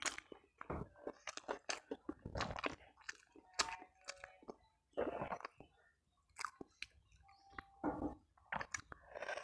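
A person chewing and smacking a mouthful of rice, omelette and sardines with chilli sambal, picked up by hand, close to a clip-on mic: wet, irregular mouth clicks and smacks, briefly quieter about six seconds in.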